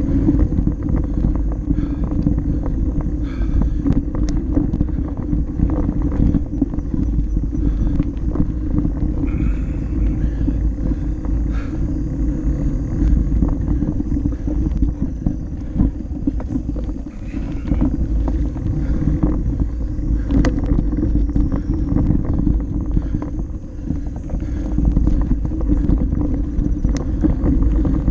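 Mountain bike rolling down a dirt flow trail: a steady low rumble of wind and tyre noise on the action camera's microphone, with scattered clicks and rattles from the bike over bumps.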